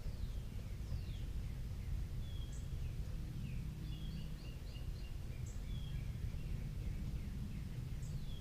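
Wild birds chirping, with repeated short high notes and quick falling whistles, over a steady low background rumble.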